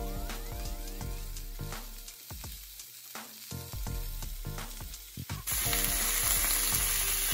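Ribeye steak and vegetables sizzling in a hot cast iron skillet, with short knocks as vegetable pieces are dropped into the pan. About five and a half seconds in, the sizzle suddenly gets louder and turns to a steady hiss.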